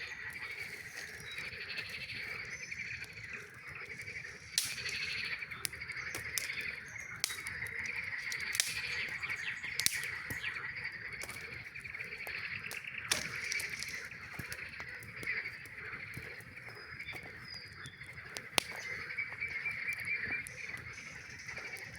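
A chorus of frogs calling in a steady, fast trill, with sharp crackles and pops from a campfire every few seconds.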